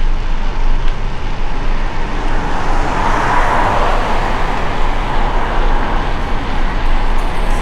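Road traffic heard from a moving bicycle: a steady rush of traffic and wind noise with a low rumble, and a vehicle passing that swells loudest about three to four seconds in.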